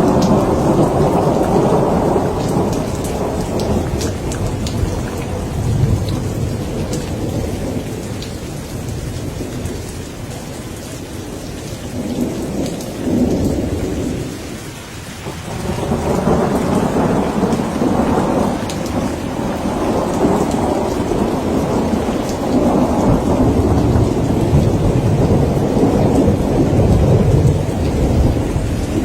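Thunderstorm: steady rain pattering over long rolls of thunder. The rumbling eases off about halfway through, then swells into a fresh long roll that carries on to the end.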